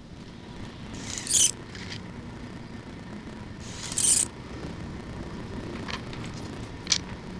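Two short scrapes about three seconds apart, then a couple of light ticks near the end, over a low steady background rumble.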